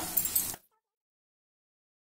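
Onions and spices sizzling in oil while a wooden spatula stirs them in a pan, with a few light clicks; the sound cuts off abruptly about half a second in, leaving dead silence.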